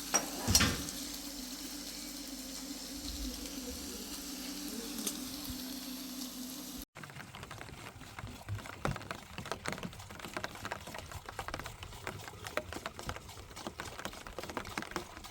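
Food frying in a pan: a steady sizzle with two sharp knocks at the very start. After an abrupt cut about seven seconds in, it turns to a denser, irregular crackle.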